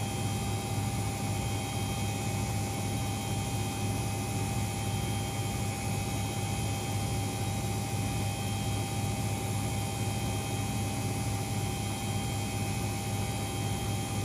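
Front-loading washing machine spinning at about 1000 rpm: a steady hum with a thin, even whine over it.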